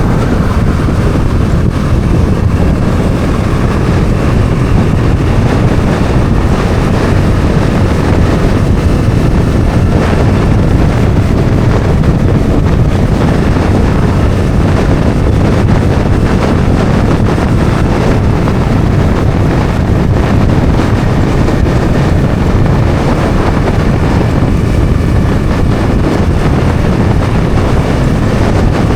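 Bajaj Dominar 400's single-cylinder engine running steadily with the motorcycle under way, largely buried under heavy wind noise on the microphone.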